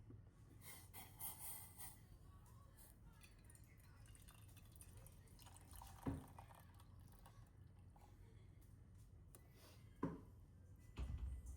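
Near silence: faint room tone with a few soft ticks and two short clicks, about six and ten seconds in.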